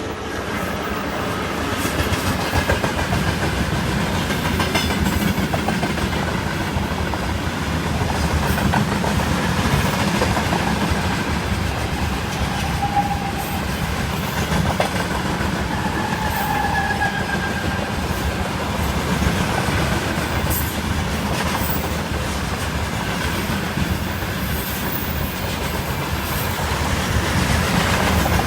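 Freight train of tank cars hauled by a 2ES6 electric locomotive rolling past: a steady rumble and clatter of wheels on the rails, building up over the first couple of seconds, with brief faint squeals about halfway through.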